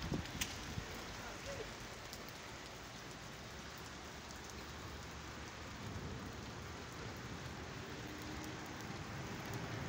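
Steady rain falling on wet pavement and puddles: an even, unbroken hiss.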